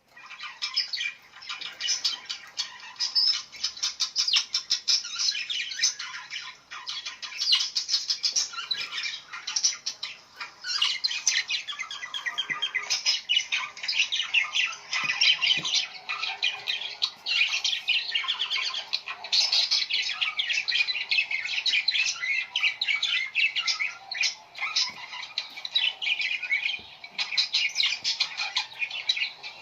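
Many birds chirping and squawking at once in a dense, unbroken chatter of short, overlapping high calls.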